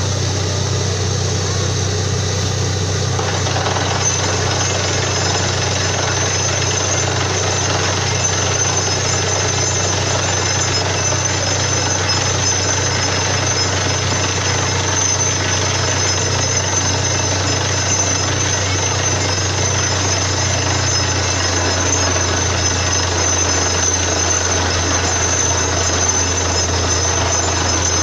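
Borewell drilling rig running steadily: a loud, continuous mechanical din over a strong low engine hum. About three and a half seconds in, a harsher noise fills in above the hum and carries on.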